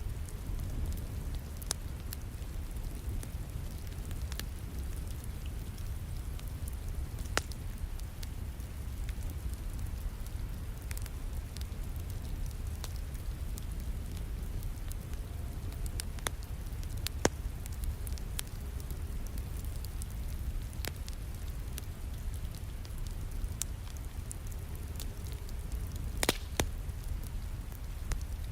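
Wood fire crackling in a fireplace, with sharp pops and snaps scattered through it, over a steady hiss and rumble of falling rain. The loudest pops come about a quarter of the way in, in the middle, and near the end.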